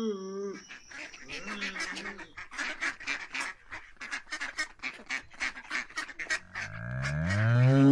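A cow's moo ends about half a second in. A mallard then quacks in a rapid run, about four quacks a second, for several seconds. Near the end a deep bull's bellow begins, rising in pitch and growing louder.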